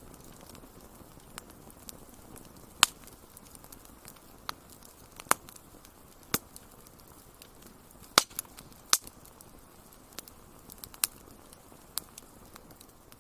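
Wood fire crackling: sharp, irregular pops and snaps, about a dozen of them, some much louder than others, over a steady soft hiss.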